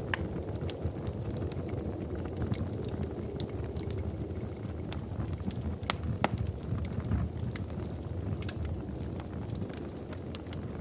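Wood fire crackling in a fireplace: a steady low rumble of flames with frequent sharp pops and snaps, two louder pops about six seconds in.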